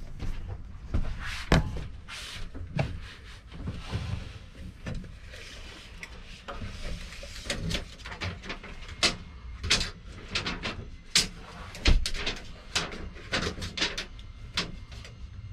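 Irregular sharp knocks and clicks from boards and hand tools being handled, most likely including a tape measure, while a wooden panel is measured. They come thicker and louder in the second half.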